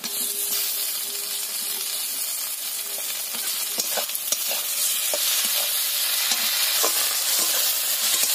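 Chopped tomatoes sizzling in hot oil in a metal kadai: the hiss starts suddenly as they go in and grows a little louder. A metal spatula scrapes the pan as they are stirred.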